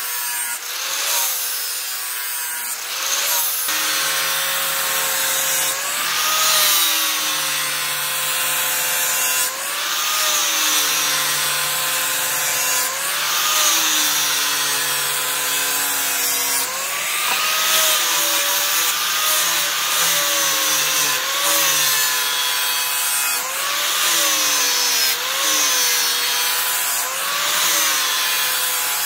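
A steel chainsaw bar being cut or ground in repeated strokes, roughly one every one and a half to two seconds. A scraping hiss comes with a steady ringing tone that bends in pitch on each stroke.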